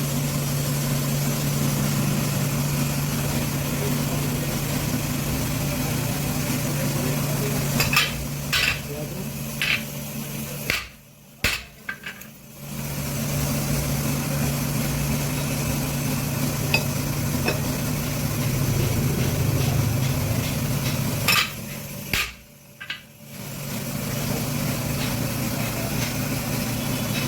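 Boring machine running with a steady motor hum, with a few sharp metal clinks. The sound cuts out sharply twice for about a second.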